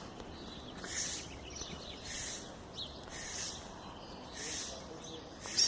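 Small songbirds calling: a buzzy, hissy call repeats about once a second, with faint short chirps in between.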